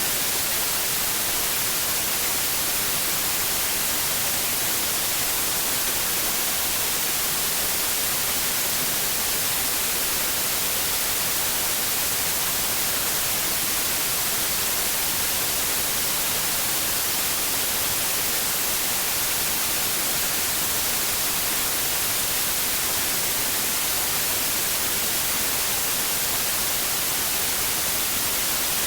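Steady white noise: an even, unchanging hiss strongest in the treble, played for lulling a baby to sleep.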